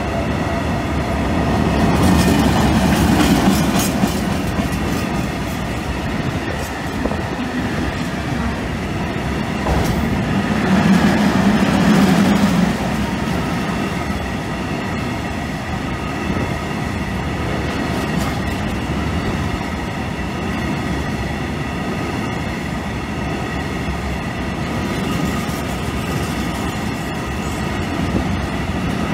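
Freight train of covered hopper wagons rolling past close by: a steady rumble with wheels clattering over the rails. It swells about two seconds in and again around ten to thirteen seconds in.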